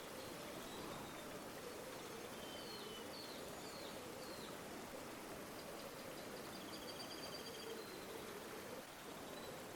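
River water flowing steadily, with faint bird calls over it: a few short chirps a few seconds in and a thin rapid trill near the end.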